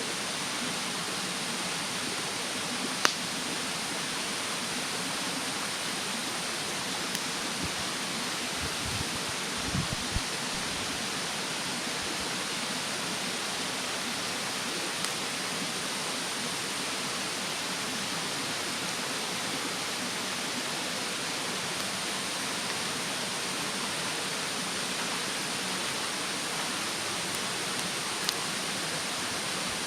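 Steady rushing of a mountain stream, with a few sharp pops and crackles from a wood fire burning in a fire stand, the loudest about three seconds in and another near the end.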